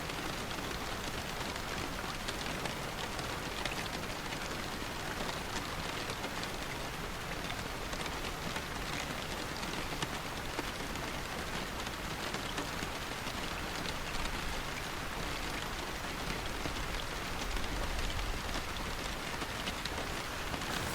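Steady rain falling, an even hiss with scattered sharper drop ticks. A low rumble swells briefly near the end.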